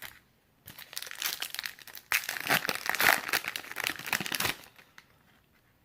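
Crinkling and rustling of a trading card pack's wrapper as it is handled, dense and crackly. It starts under a second in, grows louder about two seconds in, and stops after about four and a half seconds.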